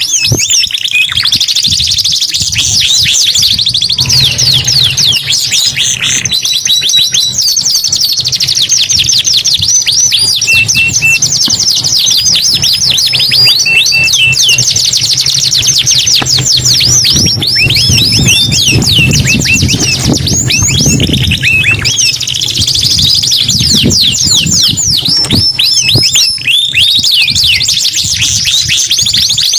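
Domestic canaries singing without pause: long runs of fast trills and rapid chirping notes, high-pitched, with a faint low hum underneath through the middle.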